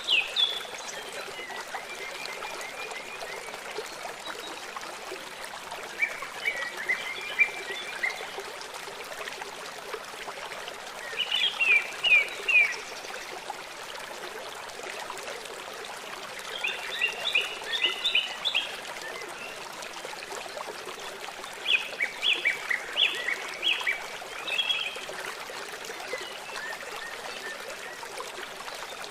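A small stream trickling steadily, with a songbird singing short phrases of quick chirping notes over it, one phrase about every five seconds.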